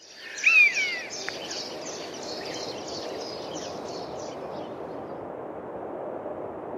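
Wild birds calling. A loud call with falling whistled notes comes about half a second in, then many quick chirps and twitters that die away about four seconds in. Under them runs a steady rushing outdoor ambience.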